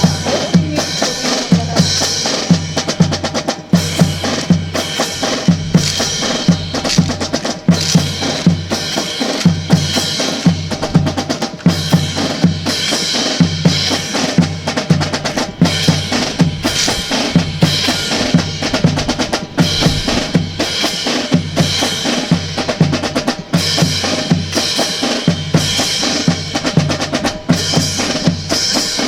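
Marching percussion playing a fast, continuous drum cadence, snare and bass drums struck in a steady driving rhythm.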